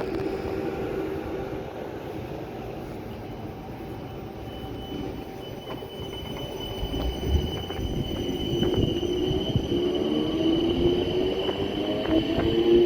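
Electric train on the line through the station: a steady high whine sets in about three seconds in, a few knocks follow, and over the last few seconds the motor whine rises in pitch as the train gathers speed.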